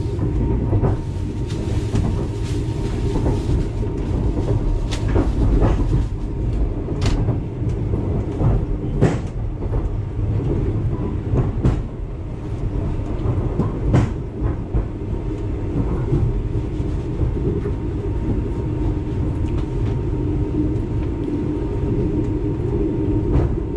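Inside a moving Thai sleeper train carriage: the steady low rumble and hum of the running coach, with scattered sharp clicks and knocks.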